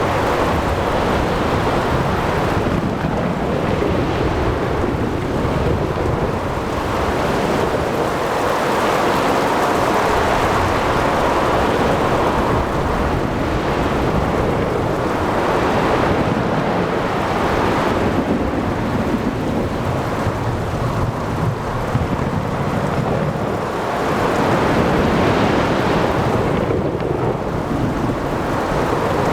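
Storm at sea: rain, wind and breaking waves in a continuous wash of noise that swells and eases every few seconds, with thunder rumbling low underneath.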